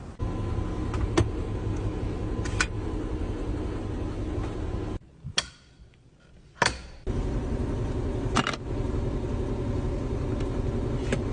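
John Deere 4555 tractor's six-cylinder diesel engine running steadily, with a few sharp clicks. The sound breaks off abruptly about five seconds in, and after a single click comes back about two seconds later.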